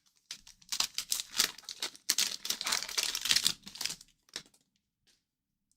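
Crinkling and tearing of a hockey card pack's wrapper mixed with rapid clicks of cards being handled, stopping about four seconds in.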